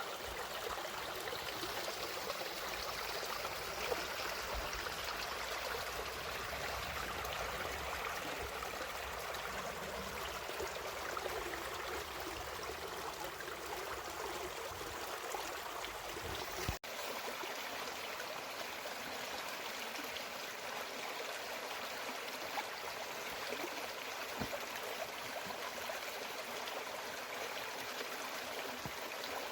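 A stream running steadily, an even rushing and babbling water noise. A little over halfway through there is a sudden cut, and the low rumble under the water drops away.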